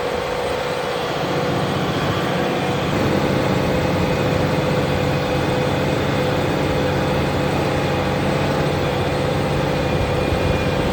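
Fendt tractor engine running steadily under load while ploughing, a deep hum with a steady whine above it.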